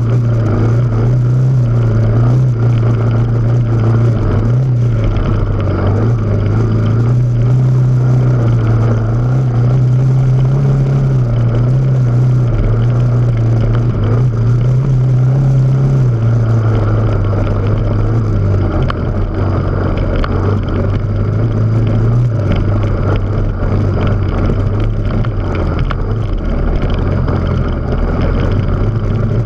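Off-road motorcycle engine running at a steady speed along a rough track, its drone stepping down in pitch about two-thirds of the way through, over wind and rumble.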